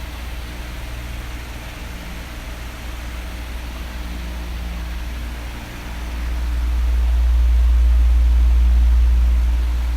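Electric fan running steadily with an even rushing hiss and a low hum. A deep rumble swells about six seconds in and eases off near the end.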